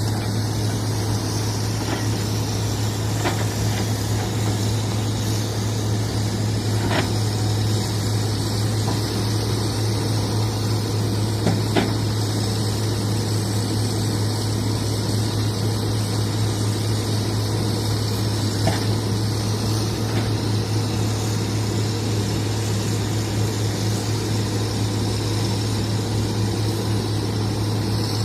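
Diesel engine of heavy earthmoving machinery running steadily at an even speed, with a few faint clicks over it.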